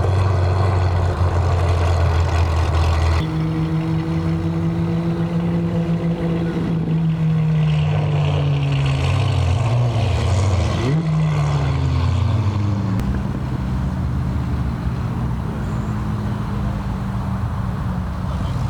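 Car engines running as cars drive slowly out of a car show, their exhaust notes sliding down in pitch as they pass. One engine is briefly blipped about eleven seconds in.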